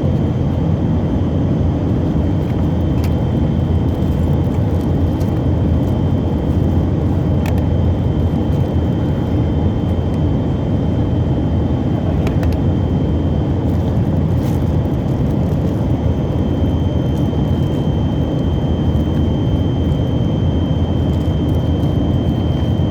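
Steady in-flight noise of a Tupolev Tu-134AK cruising level: a deep, even roar of airflow and its two rear-mounted Soloviev D-30 turbofans, with a thin steady whine above it. A few faint clicks.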